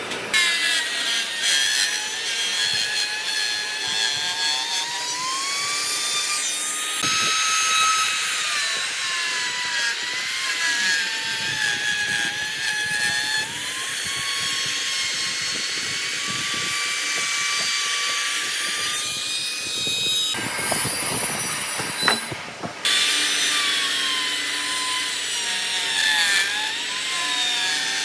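An electric power tool cutting wood, its motor tone dipping and rising as the load on it changes. About 20 seconds in the sound changes briefly for a couple of seconds, then the cutting resumes.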